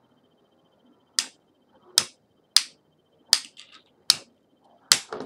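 Two spinning Beyblade tops clashing in a battle: six sharp clacks, about three-quarters of a second apart, starting about a second in.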